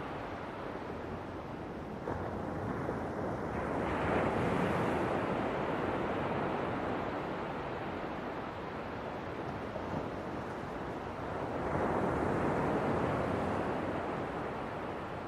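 Ocean waves washing onto the shore in a steady rush, with two swells that build and ease, about four seconds in and again about twelve seconds in.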